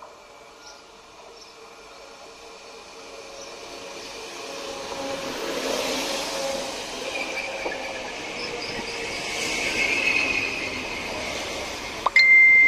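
Polregio regional diesel train approaching and passing, its rumble growing louder over the first several seconds, with a thin high wheel squeal midway. A sudden loud high-pitched tone starts just before the end.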